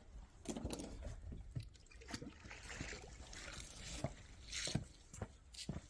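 Water trickling and splashing, with scattered knocks and scrapes of handling.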